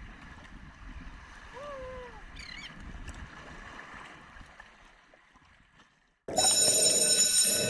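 Faint outdoor water and wind ambience with one short falling call and a few quick high chirps about two seconds in, fading away; then a song with singing starts abruptly about six seconds in and is the loudest sound.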